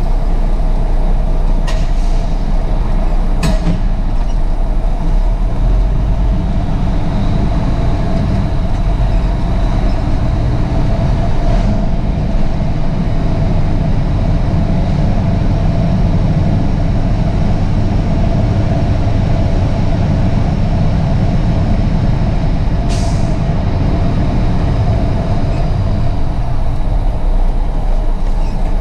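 Heavy truck's diesel engine running steadily, with a short air hiss about three quarters of the way through.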